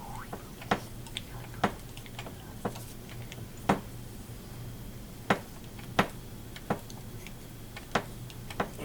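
Scattered sharp clicks and taps of small metal carburetor parts and hand tools being handled and set down during reassembly of a one-barrel carburetor, about ten in all at uneven intervals, over a steady low hum.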